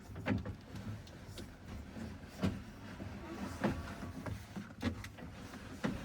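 Irregular clicks and knocks of handling and setting something against the truck door, over a steady low hum.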